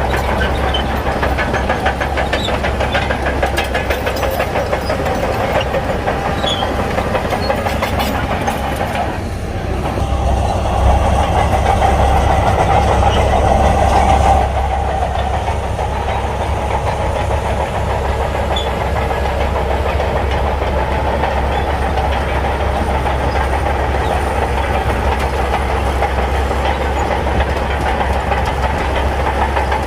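Shantui crawler bulldozer's diesel engine running under load, its steel tracks clanking. The engine is louder for a few seconds near the middle, as if pushing harder.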